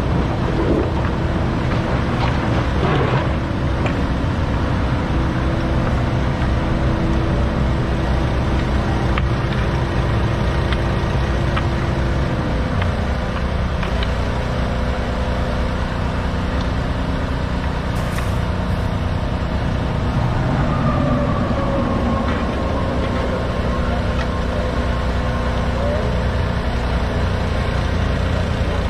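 Mini excavator's diesel engine running steadily under load, its pitch and hydraulic whine shifting as it works. There are a few knocks in the first few seconds.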